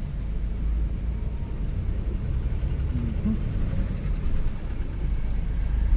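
Steady low rumble of road vehicles and street traffic.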